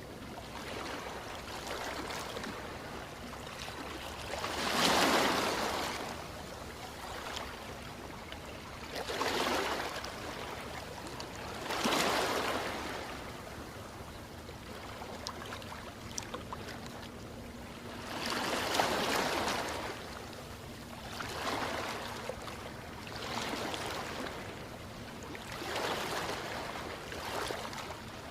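Ocean waves washing onto the shore: a steady hiss of surf with about seven surges that swell and fade a few seconds apart, some of them louder than the rest.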